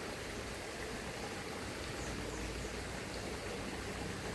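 Steady, even rushing of a small river's flowing water.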